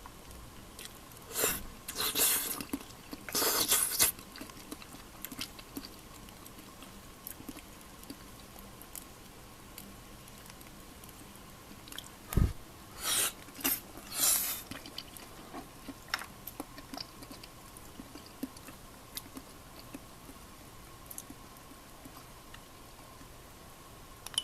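Someone eating, heard as several short bursts of chewing in two clusters. There is a single low knock about twelve seconds in, and scattered light clicks.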